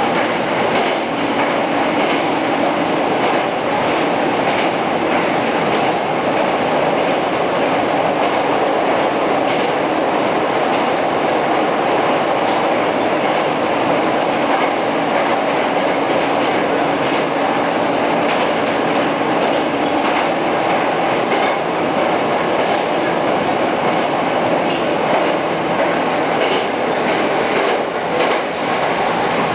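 Hankyu electric train running along the line, heard from inside the front of the car: a steady rumble of wheels on rail, with a faint motor hum and scattered clacks over rail joints.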